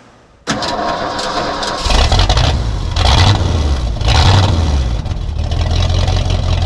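An engine starts about half a second in and settles into running with a steady low hum, surging louder several times.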